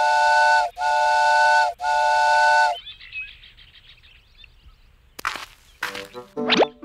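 Cartoon train whistle sounding three chord blasts of steady tones, each just under a second long. A short noisy swish follows about five seconds in, then a quick rising boing-like glide at the end.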